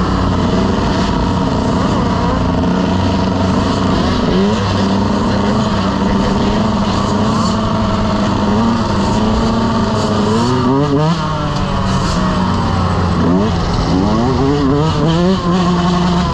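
Dirt bike engines running, with several revs that rise sharply in pitch: one about four seconds in, a cluster around ten to eleven seconds, and more near the end.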